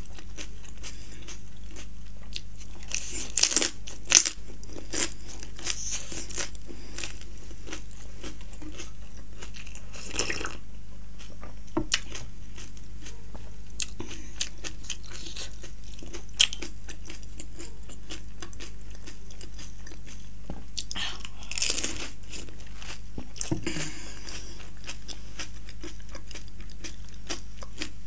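Close-miked chewing and crunching of panipuri, crisp fried puri shells filled with spicy water, with a few louder crunches about 3 seconds in, near 10 seconds and around 22 seconds. A steady low hum runs underneath.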